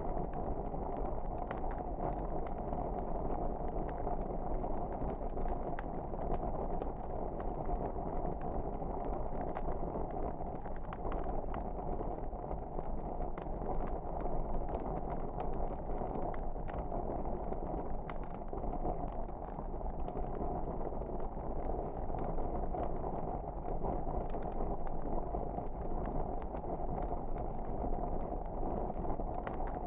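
Wood fire burning in a fireplace: a steady low rush of flames with frequent small crackles and pops.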